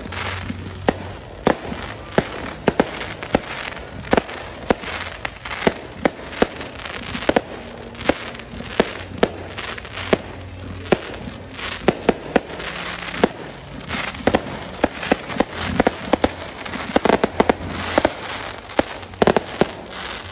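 Aerial fireworks display: sharp bangs of shells bursting at uneven intervals, often several in quick succession, over a continuous noisy haze between them.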